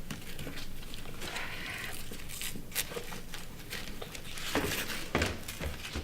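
Rustling and scuffling with many sharp clicks and knocks, and a few heavier thumps in the second half, as something is pulled about until it comes apart.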